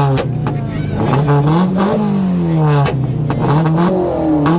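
Car engine revving hard again and again, its pitch climbing and dropping about three times, with a few sharp cracks between the revs.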